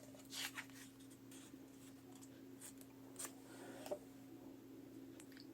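Faint scratching and rubbing of a tool on paper, with a few light taps, over a steady low hum.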